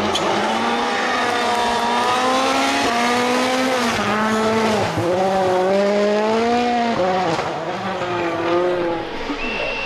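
A World Rally Car's 1.6-litre turbocharged four-cylinder engine at full attack. The engine note climbs and drops sharply at each of several quick gear changes, and there is a brief high squeal near the end.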